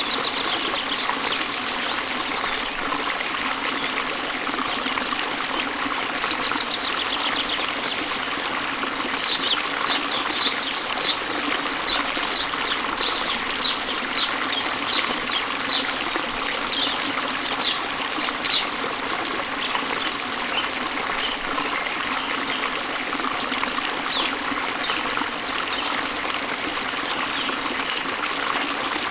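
Steady rush of water falling and flowing, with a bird singing. Partway through, the bird gives a run of short, high notes at about one and a half a second, with a few fainter chirps at other times.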